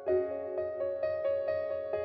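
Background music: a soft piano-like keyboard melody with a chord struck at the start and notes at a gentle, even pace.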